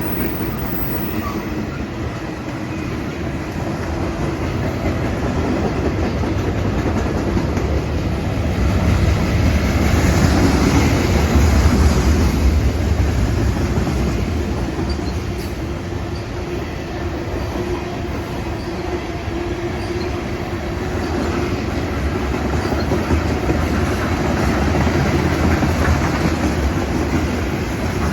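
Freight train rolling past: the steady rumble and clickety-clack of railcar wheels on the track, swelling louder twice.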